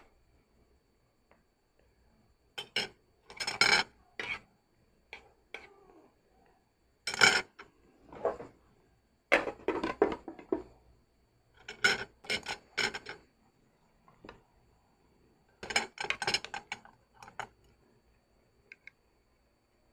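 Utensils clattering and scraping against dishes in scattered bursts, the handling noises of a noodle meal being eaten.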